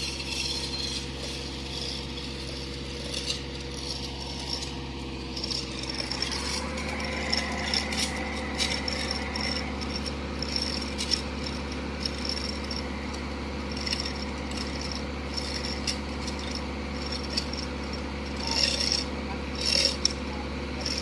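Mini excavator's diesel engine running steadily, its pitch stepping up slightly about six seconds in as it takes more throttle or load. Scattered metallic knocks and clanks, with a few short hissing bursts near the end.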